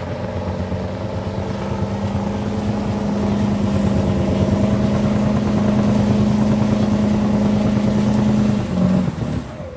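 A vehicle engine held at steady high revs during a burnout, with a wide roar of noise under the engine note. It grows louder over several seconds, then the revs break and drop away near the end.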